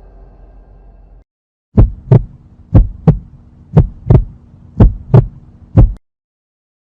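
Heartbeat sound effect: a steady beat of paired low thumps, lub-dub, about once a second, five beats in all, starting after a faint fading tail of the previous sound.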